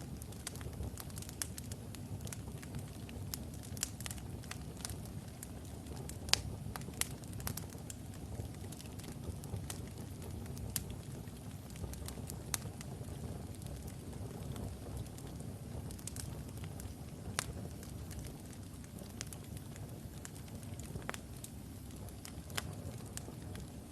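Wood logs burning in a fireplace: a steady low rumble of the fire with frequent irregular crackles and pops, one sharper pop about six seconds in.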